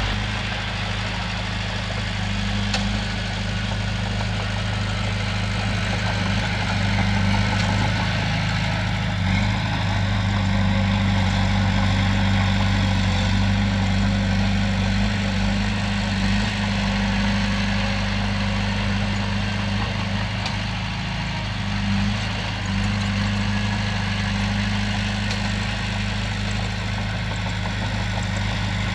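Komatsu bulldozer's diesel engine running at a steady speed, with a constant low hum.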